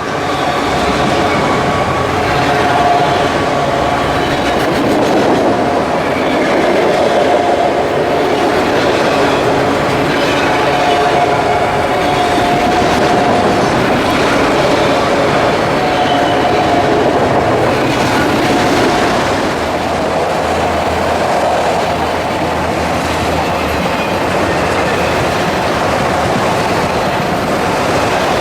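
A freight train's cars rolling past, a steady loud rumble with wheels clattering over the rail joints.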